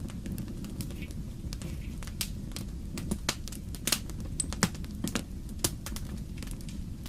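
Wood fire in a fireplace crackling: irregular sharp pops and snaps over a steady low rumble, a few louder snaps around the middle.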